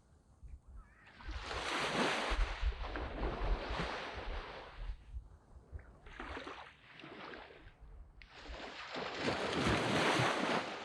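Sea waves breaking and washing up a sandy beach in three surges: a long one from about a second in, a smaller one around six seconds, and another big one that swells toward the end.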